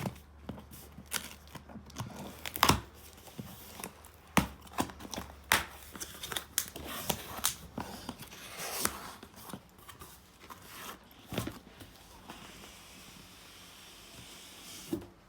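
Boxed packaging being handled and unwrapped: irregular tearing and crinkling of wrapping, with scattered sharp clicks and knocks.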